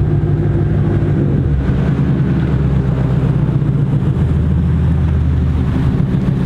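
Car engines running at idle, a low steady rumble; a deeper drone joins about a second and a half in.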